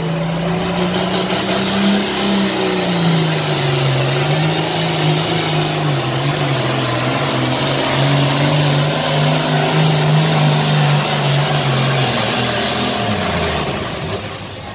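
Turbocharged diesel International pulling tractor under full throttle hauling a pulling sled. The engine note rises slightly about two seconds in, holds steady, then drops off near the end as the driver comes off the throttle.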